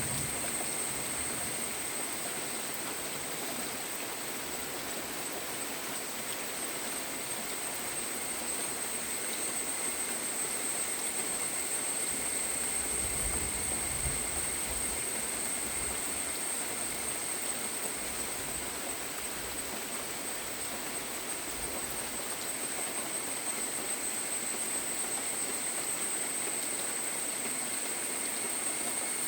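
Steady rainfall, an even hiss with a steady high-pitched tone running through it.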